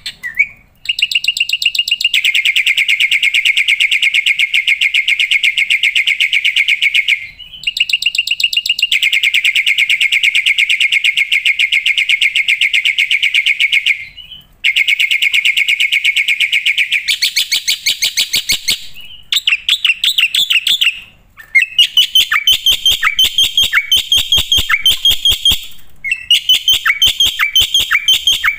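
Black-winged myna (jalak putih) singing loudly and continuously, in a song packed with mimicked phrases. Long, very rapid trills of several seconds each are split by short breaks, then about two-thirds of the way in the song turns into a varied run of short chattering phrases.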